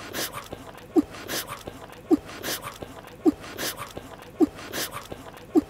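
Anime chewing sound effect looped: a short squeaky chomp followed by a softer smacking munch, repeating about once a second, five times over.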